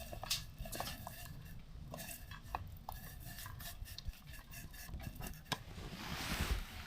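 Metal utensils and cookware being handled: scattered light clinks and taps, a few short pings, and a brief rustling swell near the end.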